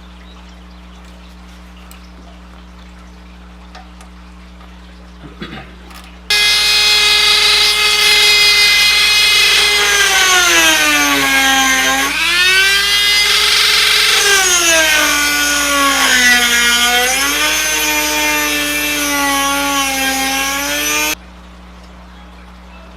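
Small electric power tool motor whining for about fifteen seconds. It starts suddenly about six seconds in and cuts off suddenly near the end. Its pitch sags twice as it comes under load.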